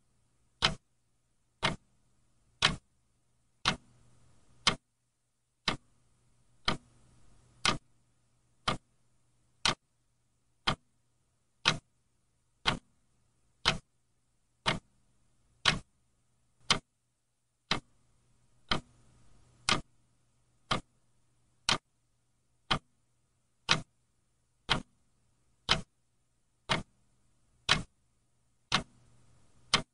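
Clock ticking steadily, about one sharp tick a second, over a faint low hum.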